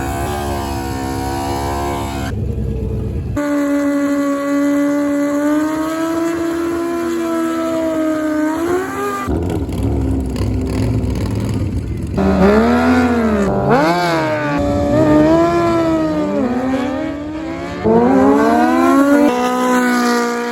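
Drag-racing motorcycle engines revving hard, the pitch climbing and dropping repeatedly in quick blips, with a steadier high-rev hold in the first half.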